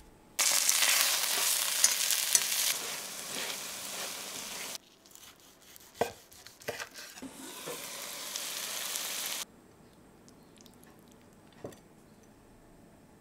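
Semolina-coated chicken breasts frying in hot oil in a pan: a loud, steady sizzle that cuts off abruptly about five seconds in. A few crisp knife cuts through the fried coating on a wooden board follow, then another sizzle that builds up and stops sharply.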